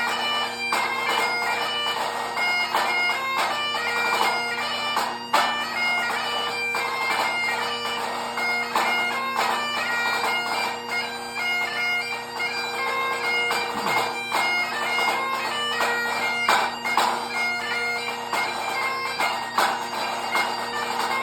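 Highland bagpipe playing a fast tune over steady drones, with a pipe band snare drum playing a solo drumming setting of rapid sharp strokes over it.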